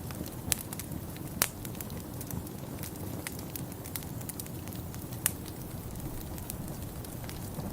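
Wood fire crackling in a fireplace: sharp, irregular pops and snaps over a steady low rumble, with the loudest pop about a second and a half in.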